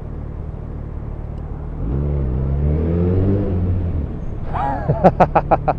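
Yamaha FZ1's inline-four engine heard from the rider's helmet, its note rising under acceleration about two seconds in. Near the end comes a brief squeal and then a fast run of loud, sharp chirps, about seven a second, during a near rear-end with a car.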